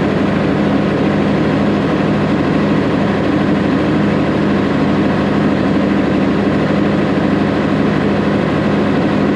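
Semi truck's diesel engine idling steadily during an injector cutout test, running on dead injectors in cylinders 1 and 6.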